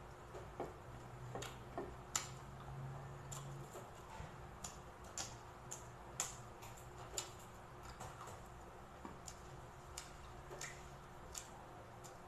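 Eating crispy fried pork belly by hand, close to the microphone: faint, irregular crunches and mouth clicks, about one or two a second.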